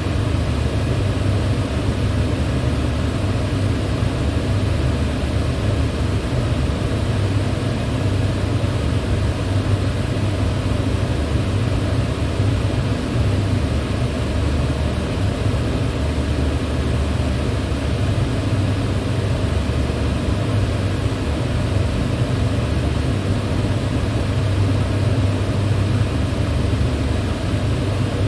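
Electric fan running steadily: an unbroken rush of moving air with a deep, even hum under it and no changes in speed.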